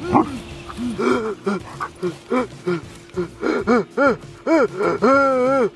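Siberian husky whining and 'woo'-ing in a quick run of short rising-and-falling cries, the last few drawn out longer, over a steady held tone of background music.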